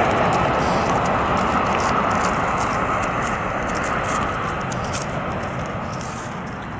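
Airbus A319 jet engines, a broad steady roar that slowly fades as the airliner moves away.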